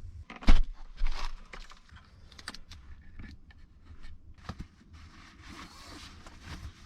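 A sharp knock about half a second in, then a rustling scrape, scattered light clicks and a soft, even rustling toward the end.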